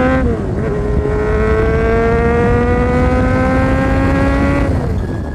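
Kawasaki Z800 inline-four with an SC Project aftermarket exhaust under acceleration, loud. The pitch rises steadily, drops briefly at a gear change just after the start, climbs again for about four seconds, then falls near the end.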